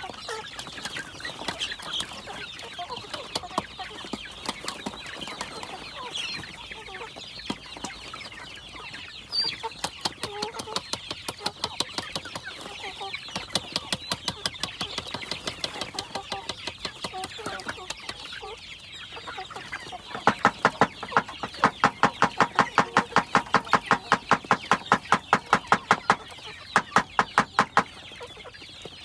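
Gamecocks clucking while they peck at feed, with sharp taps all through. About two-thirds of the way in, the pecking turns into a loud, fast run of about four taps a second, which stops shortly before the end.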